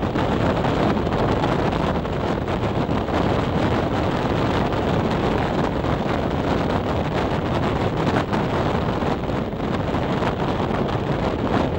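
Steady noise of a regional passenger train running at speed, heard from a side window, with wind buffeting the microphone.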